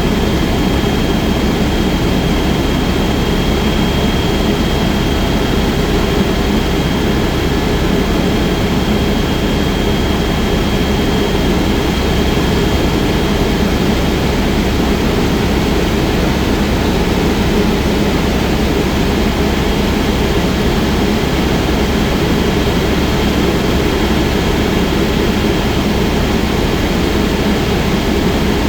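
Helicopter in flight, its turbine engine and rotor running steadily: a loud, even drone with a thin, constant high whine over it.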